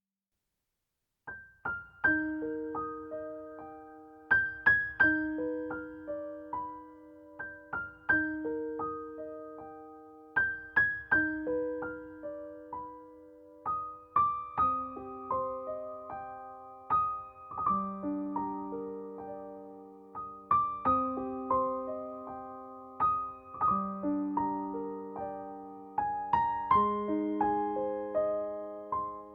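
Background piano music: a gentle melody of struck notes over sustained chords, starting after about a second of silence.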